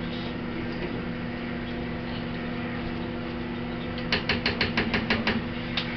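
A steady hum runs underneath. About four seconds in comes a quick run of about eight sharp taps, a spoon knocking dumpling dough off against the rim of the pot, and one more tap near the end.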